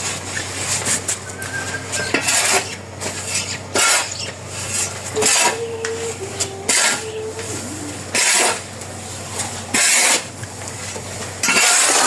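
A spoon scraping and stirring in a cooking pot, in repeated short strokes about one every second and a half.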